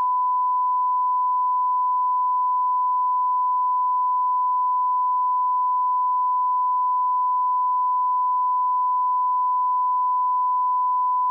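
Steady 1 kHz audio line-up test tone at −18 dB, a single unbroken pure tone held at constant level.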